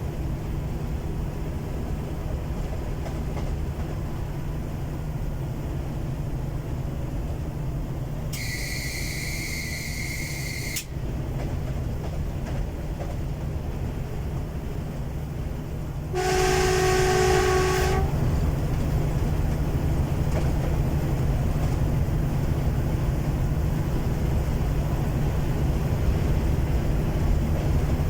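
DR1B diesel multiple unit under way, its engine and running gear giving a steady low rumble. About 8 seconds in a high-pitched whistle sounds for a couple of seconds, and about 16 seconds in a lower, louder horn blasts for about two seconds, after which the running noise stays louder.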